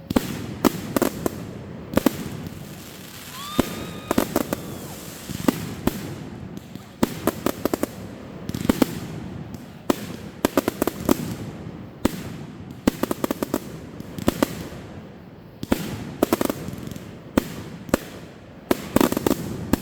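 Fireworks going off: sharp bangs and rapid crackling volleys in clusters every second or two, over a low rumble. A short whistling tone sounds about four seconds in.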